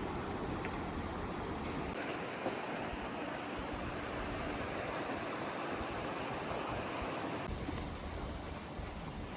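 Steady rushing wash of sea waves, with wind buffeting the microphone in the first couple of seconds and again near the end.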